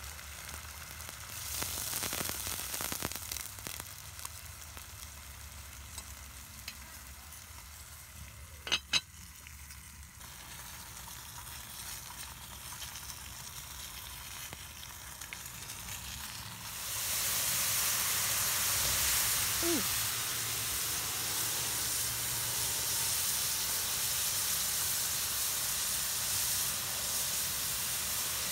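Food sizzling and bubbling in cast iron over a wood fire, softer at first, then a loud, steady sizzle from a little past halfway, when a cast iron skillet of chicken in bubbling liquid is cooking. Two sharp clicks about a third of the way in.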